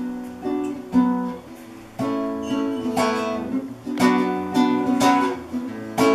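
Acoustic guitar played live, strummed chords struck about once a second, opening a song.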